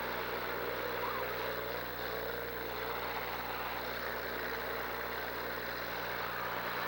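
Demolition derby cars' engines running together, a steady mechanical din with no single crash standing out.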